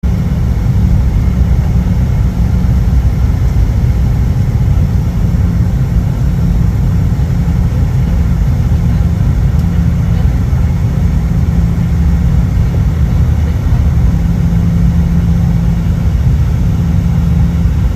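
Steady, deep engine drone and rumble from a vehicle, running evenly without any change in pitch.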